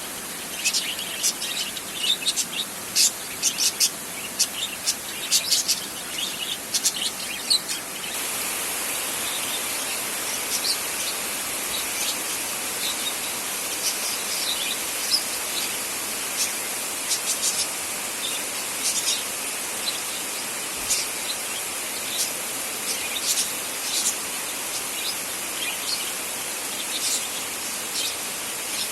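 Birds chirping in many short, sharp calls over a steady high hiss. About eight seconds in, the hiss gets louder and the chirps become fewer.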